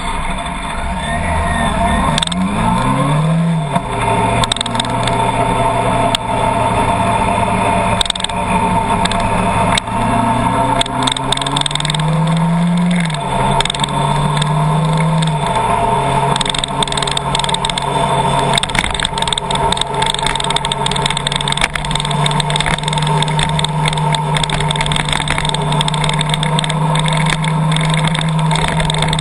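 Car driving, its engine note rising and dropping back several times in the first half as it accelerates through the gears, then holding a steady pitch. Many sharp ticks sound throughout.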